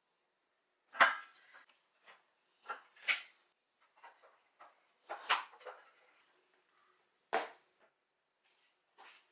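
Containers and food items knocking and clattering as they are handled and set down in a refrigerator during organising: about six separate knocks, the sharpest about a second in.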